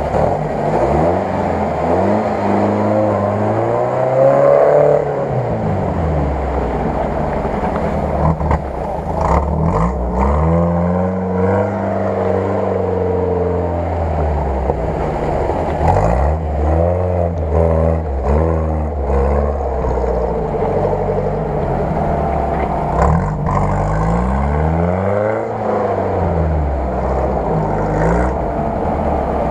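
UAZ-469 off-roader's engine revving up and falling back in about four long surges as it pulls through deep mud.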